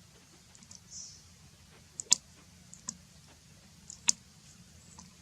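Scattered sharp clicks, the loudest about two seconds in and again about four seconds in, with a short soft rustle about a second in.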